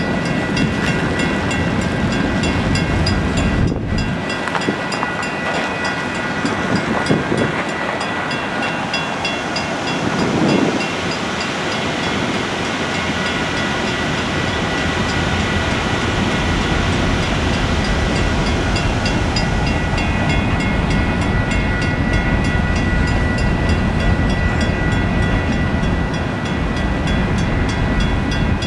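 Loaded aggregate hopper cars of a freight train rolling past, steel wheels rumbling steadily on the rails, with a steady high ringing tone over the rumble.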